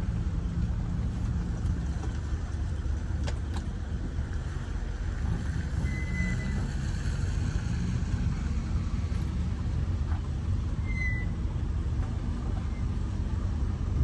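Car engine running steadily at low speed with a low hum as the car is manoeuvred into a parking space.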